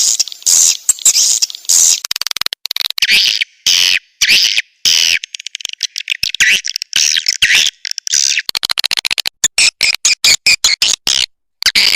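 Swiftlet lure call: loud, high twittering chirps of swiftlets in dense bursts broken by short gaps, turning in the second half into a quick run of short chirps several times a second. It is a call recording of the kind played to draw swiftlets into a nesting house.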